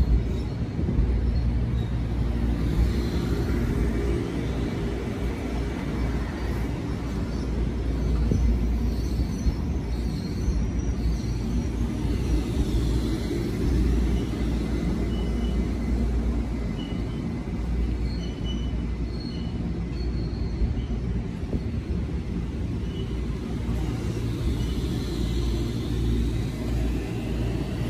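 Metro-North commuter train rumbling steadily alongside the platform, a low continuous rumble that swells a little now and then. Faint short high squeals come through a few times.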